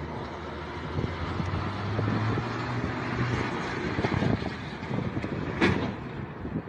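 Road and engine noise of a moving car, with wind buffeting the microphone and a sharp knock near the end.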